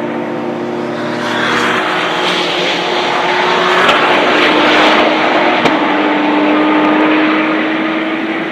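Porsche 911 GT3 Cup race cars' flat-six engines running at high revs on track: a steady engine note, then a broad rush of engine and tyre noise that swells to its loudest about four to five seconds in as a car goes past. There is one short sharp crack about five and a half seconds in, and a steady engine note near the end.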